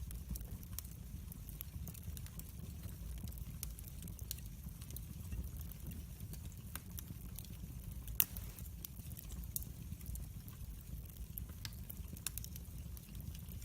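Wood fire burning in a fireplace: a steady low rumble with frequent small crackles and snaps, and one louder pop about eight seconds in.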